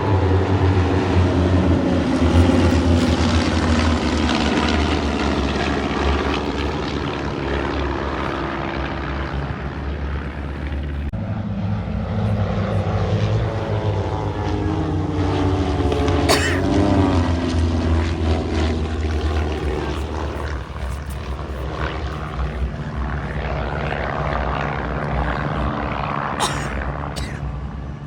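Propeller aircraft flying past overhead, their engines droning loud with a pitch that falls as they go by, then a second pass swelling up about halfway through.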